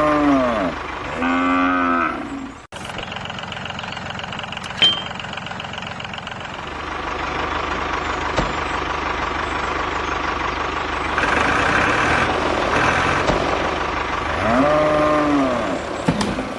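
A cow mooing: drawn-out calls that rise and then fall in pitch, two near the start and one near the end, over a steady motor running throughout.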